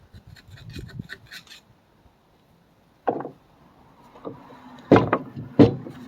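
Hand tools working on a tractor's front axle: light scraping, then a sharp knock and two loud ringing metal clanks about a second apart near the end.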